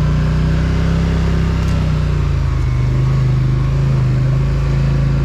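Polaris Sportsman ATV engine running at a steady, moderate pace under way, with its pitch dipping slightly about two seconds in and then picking back up.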